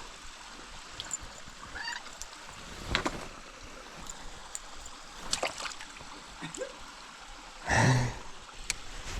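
Mountain stream running and trickling steadily, with a few faint clicks and one brief louder burst of noise near the end.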